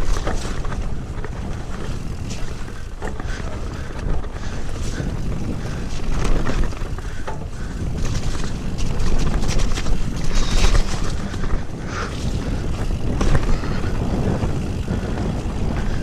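Mountain bike riding over a rough, muddy trail: a steady rumble of wind buffeting the microphone, with frequent clicks and rattles from the bike over roots and rocks.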